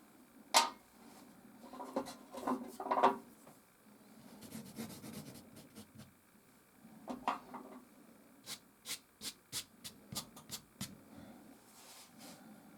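Soft pastel rubbing and scraping on canvas in short strokes, with sharp clicks: one about half a second in and a run of about eight quick ticks from about eight to eleven seconds in.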